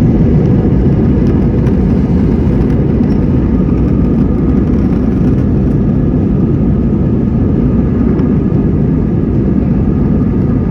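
Airplane taking off: a loud, steady rumble of engine and airflow noise, with faint steady engine tones above it.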